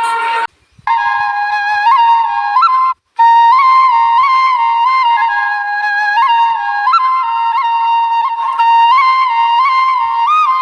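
Background music: a solo flute playing an ornamented melody with quick grace-note flicks, cutting out briefly twice, about half a second in and again about three seconds in.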